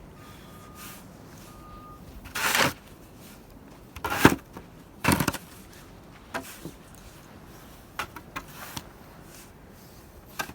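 Snow shovel digging into deep snow: three loud, short scraping crunches spaced a second or two apart, followed by a few lighter knocks and scrapes.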